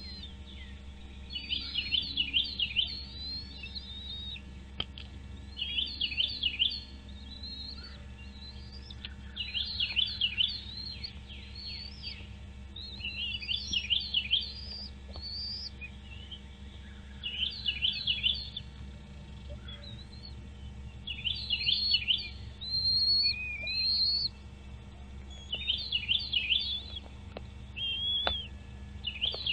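A bird singing, repeating a short phrase of quick falling whistled notes about every four seconds, over a steady low hum.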